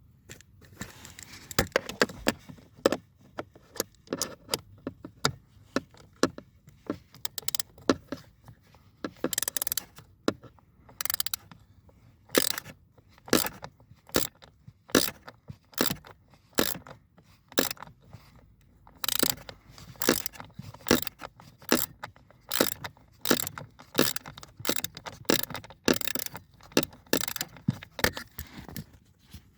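Hand tools and small parts clicking and clattering at irregular intervals, with short runs of quick clicks, while Torx T20 screws are worked on around the car's HVAC flap motor.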